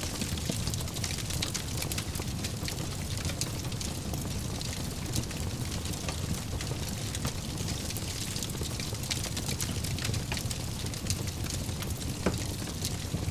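Fire burning in a fireplace: a steady low rumble of flames with frequent small crackles and pops, and one louder pop near the end.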